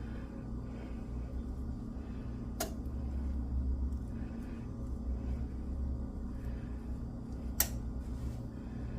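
Two sharp clicks of a utensil against the pie dish, about five seconds apart, as thick mashed potato is spread over the filling, over a steady low hum.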